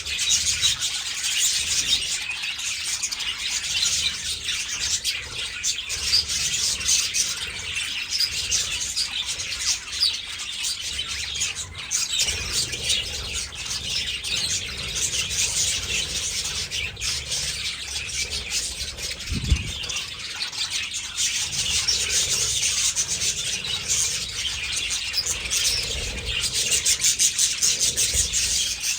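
A flock of budgerigars chattering and chirping without pause, many high calls overlapping. A brief low thud is heard about two-thirds of the way through.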